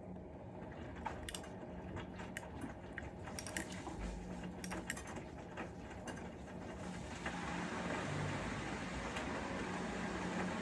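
Bosch Serie 4 front-loading washing machine running mid-programme on a cotton wash, with a steady low hum. Scattered clicks and knocks sound during the first six seconds. About seven seconds in, a steady rushing hiss starts and the sound grows louder.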